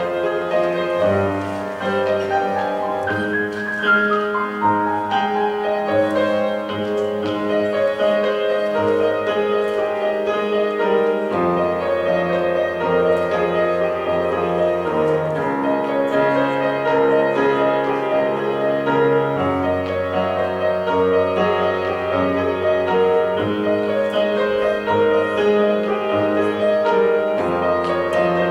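Solo piano playing a slow, flowing classical-style piece, with sustained bass notes that change every few seconds under broken chords, and a descending run about three seconds in.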